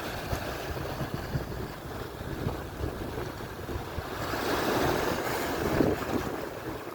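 Atlantic surf washing ashore, with wind buffeting the microphone; one wave swells to its loudest about four to six seconds in.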